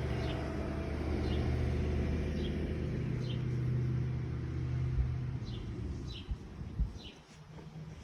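A motor vehicle's engine running with a low steady hum that fades away about five or six seconds in, while a bird gives short falling chirps about once a second.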